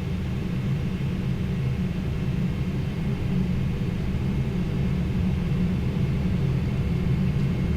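Steady low rumble of a Boeing 777 flight deck on approach, with the landing gear down and flaps extended.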